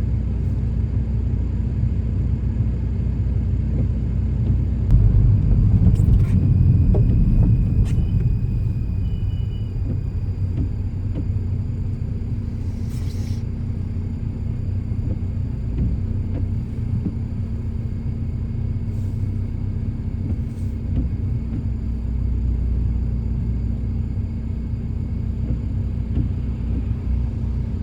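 Inside the cabin of a SEAT Leon FR on the move: a steady low road and engine rumble with a droning hum, growing louder for a few seconds about five seconds in, then settling again.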